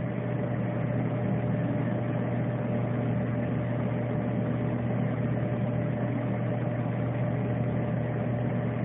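Tractor engine running steadily, a low even drone with no change in pitch or level.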